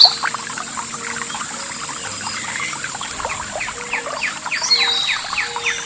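Small stream trickling and gurgling over stones, a dense run of irregular little bloops and drips. A bird gives a short whistled note about two thirds of the way through.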